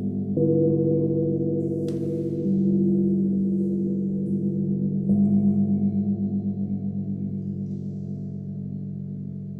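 Low-pitched sound bowls struck in turn, about every two and a half seconds, each strike adding a new sustained tone over the ones still ringing. The overlapping tones waver with a slow pulse and fade gradually, with a brief light click about two seconds in.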